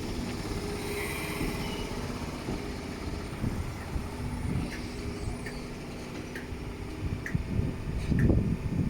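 Diesel engine of an HST Class 43 power car running steadily, with faint ticks about once a second and a louder low surge near the end.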